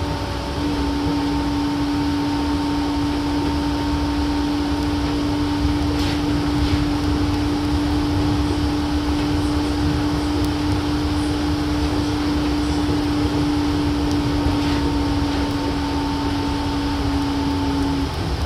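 Cabin sound of a Nippori-Toneri Liner 330-series rubber-tyred guideway train running at speed: a steady rumble of tyres on the guideway with a constant hum from its Mitsubishi IGBT inverter drive, which cuts off near the end.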